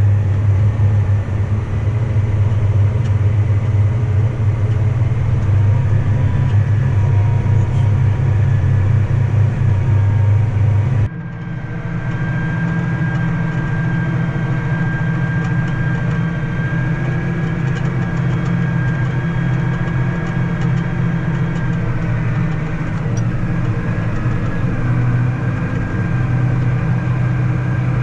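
Heavy farm machinery engine running steadily with a deep drone. About eleven seconds in the sound changes abruptly to a different steady engine drone with a high whine over it.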